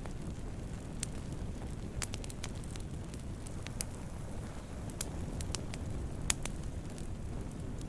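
Campfire of burning wood crackling: a steady low rumble of flames with irregular sharp pops and snaps, two louder pops about four and six seconds in.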